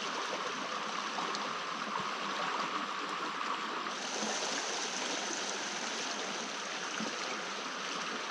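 Small creek running steadily, an even rush of water whose tone shifts slightly about four seconds in.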